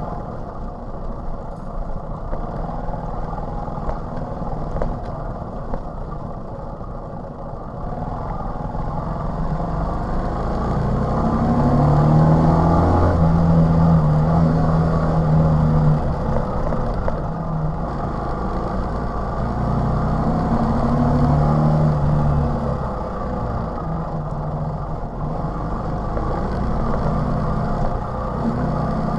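TVS XL 100 moped's small single-cylinder four-stroke engine running on the road, its note growing louder and rising a little about halfway through and again about two-thirds in.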